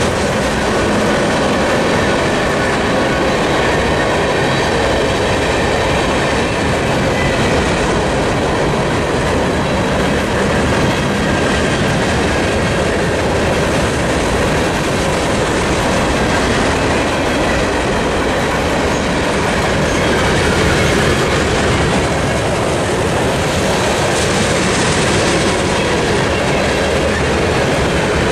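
Freight train cars, covered hoppers and boxcars of a mixed freight, rolling past at the crossing: a loud, steady rolling noise of steel wheels on rail that does not let up.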